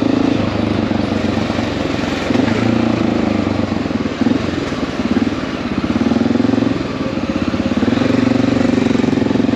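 Honda XR dual-sport motorcycle's single-cylinder engine running through city traffic, its note swelling and easing every second or two with throttle, over steady road noise.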